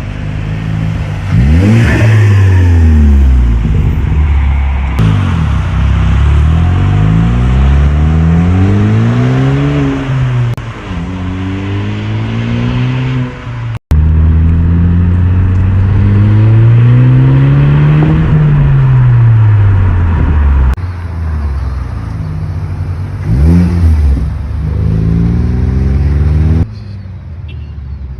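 Ford Focus ST's turbocharged 2.0-litre four-cylinder heard through an MBRP cat-back exhaust, revving up and down over and over, the pitch climbing and falling, in several short takes joined by abrupt cuts.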